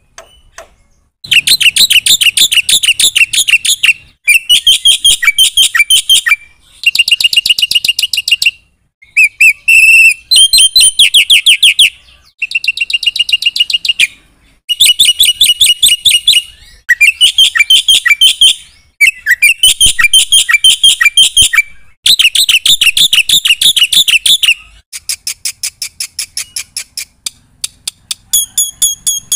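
Black-winged myna (jalak putih) singing loudly in repeated bouts of rapid, evenly spaced notes. Each bout lasts about two to three seconds, with short pauses between. The notes turn softer and sparser near the end.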